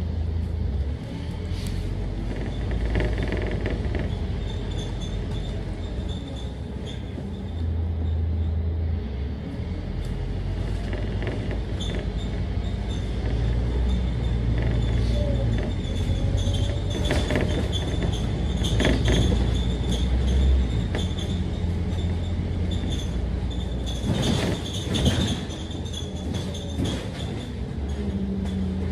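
Scania K310UD double-decker bus running on a city route, its diesel engine rising and falling in pitch as it pulls away and eases off. Several rattles and clatters come through, in bunches past the middle and again a few seconds later.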